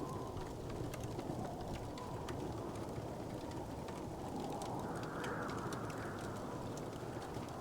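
Wood fire crackling in a fireplace: many small, sharp pops scattered over a steady low rushing noise.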